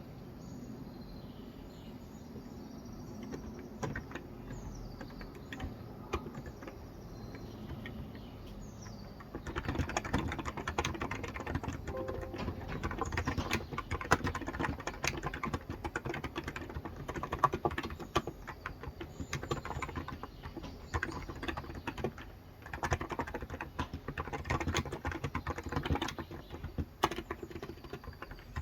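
Typing on a COX Endeavor electrostatic capacitive (non-contact) 35 g tenkeyless keyboard. A few scattered keystrokes come first, then from about a third of the way in a fast, continuous run of keystrokes with a short pause about three-quarters through. Faint bird chirps sound in the quieter opening part.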